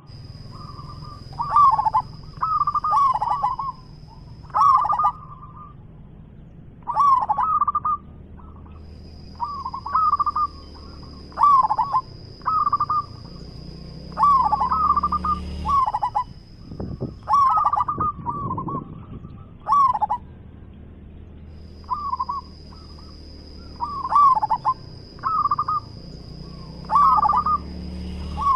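Zebra dove (perkutut) cooing: short, rapid, rolling coo phrases repeated every second or two.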